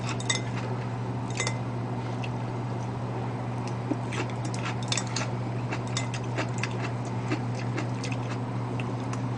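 Close-up chewing and mouth sounds, with a few light clicks of chopsticks against a ceramic bowl. A steady low hum sits under it.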